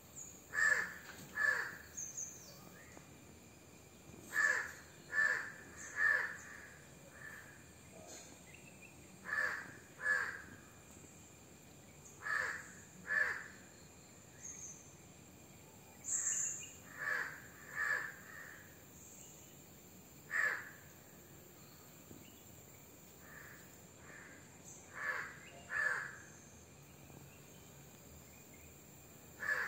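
A bird calling repeatedly outdoors: short harsh calls in runs of two or three, a new run every few seconds.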